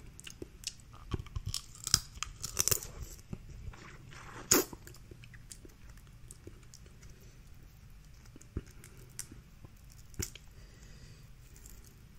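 Snow crab leg shells being cracked and pulled apart by hand, with chewing in between: scattered sharp cracks and clicks, the loudest about four and a half seconds in, thinning out to a few later on.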